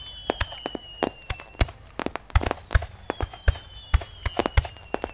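Aerial fireworks display: a rapid, irregular string of sharp shell bursts and cracks, several a second. Twice a high whistle slowly falls in pitch among the bangs, once at the start and again from about three and a half seconds in.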